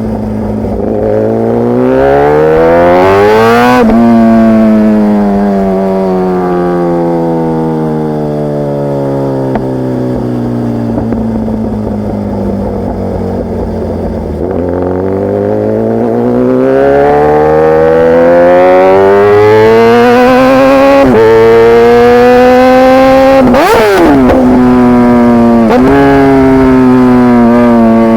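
Kawasaki ZX-10R inline-four through an SC-Project CRT carbon exhaust, ridden: the revs rise for a few seconds, fall slowly for about ten seconds as the throttle is rolled off, then climb again through gear changes, with a sudden drop in pitch at each upshift.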